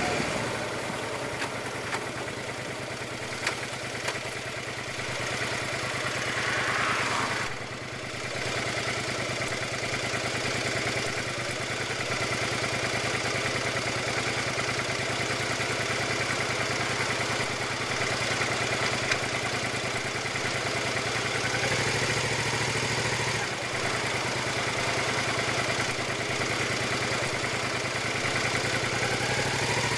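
Suzuki SV650's V-twin engine idling steadily while the motorcycle waits at a junction.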